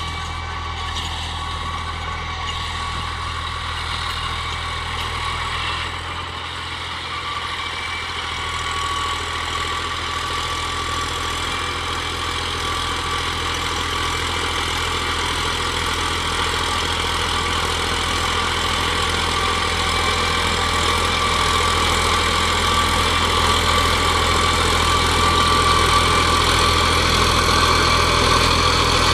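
New Holland tractor's diesel engine running steadily, slowly growing louder.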